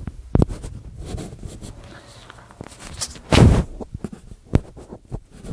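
Small campfire being lit: irregular sharp cracks and snaps of burning twigs and sticks, with a louder rushing noise about three seconds in.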